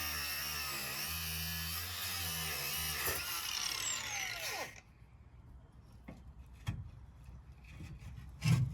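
Cordless angle grinder cutting into a steel rivet on a caravan chassis. About four seconds in its pitch drops as it winds down, and it stops. A few light clicks and a low knock follow.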